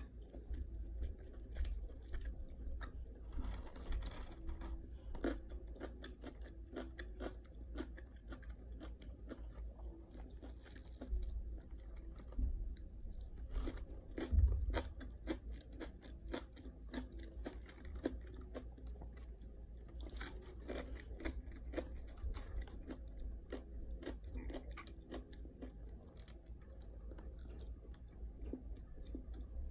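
Close-miked chewing of crunchy food, with many small crunches and mouth clicks running on without pause. One louder thump about halfway through.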